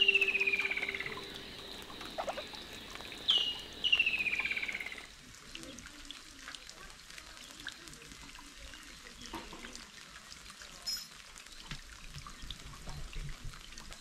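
A bird calls twice, each call a fast trill of notes falling in pitch and lasting about a second. About five seconds in this gives way to light rain: a faint, steady patter and trickle of dripping water.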